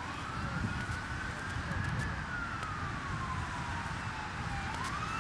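A siren wailing in a slow cycle: the pitch rises for about two seconds, falls for nearly three, then starts rising again near the end, over a steady low rumble.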